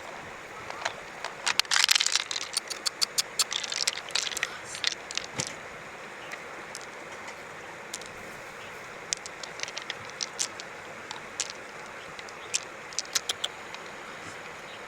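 Steady rush of running water, with clusters of sharp clicks and scrapes about two seconds in and again about ten seconds in.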